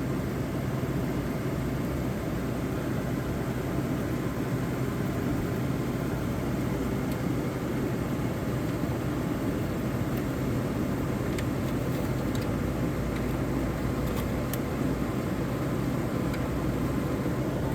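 1985 White Westinghouse 5900 BTU air conditioner running and cooling: its fan blowing and its rotary compressor humming steadily.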